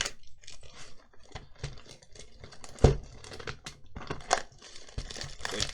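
Plastic wrapping crinkling and tearing in irregular crackles, with small clicks throughout and a sharper knock about three seconds in.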